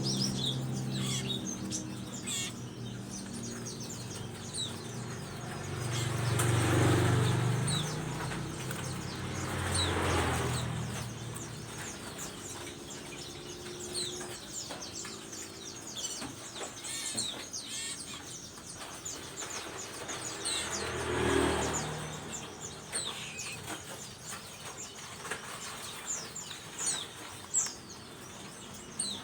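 A chorus of common ioras (sirtu/cipoh) calling together: many short, high chirps and whistles overlapping throughout. Three louder swells of noise, like vehicles passing, come at about seven, ten and twenty-one seconds in.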